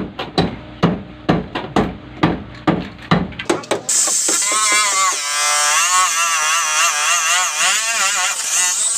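Repeated sharp knocks like hammer blows, about two a second, which stop abruptly a little under four seconds in. A voice with a wavering, sliding pitch then takes over.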